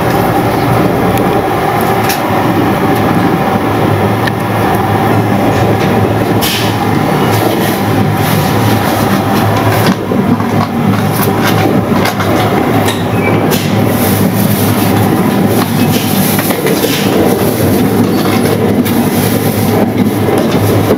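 Running noise heard inside a JR West 683 series 8000-subseries electric limited express car: a steady rumble of wheels on rail, with scattered clicks from the wheels over rail joints from about six seconds in.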